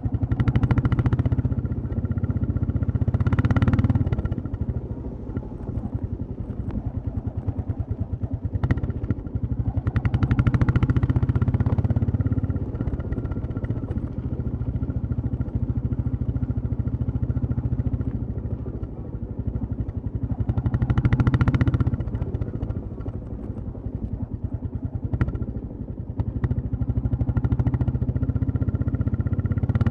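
Royal Enfield Classic 350 single-cylinder engine and exhaust running while riding. The engine note swells louder a few times, near the start, around a third of the way in and past the middle, then settles back to a steady cruise.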